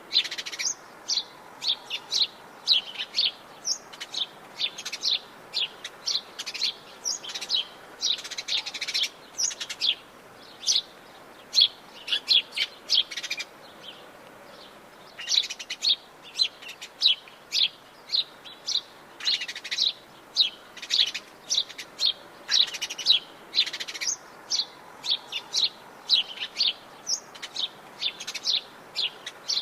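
Several small birds chirping in rapid, high-pitched notes that overlap almost without pause, with a brief lull about halfway through.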